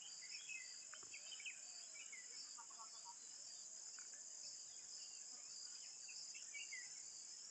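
Faint, steady high-pitched insect chorus, with scattered short bird chirps over it.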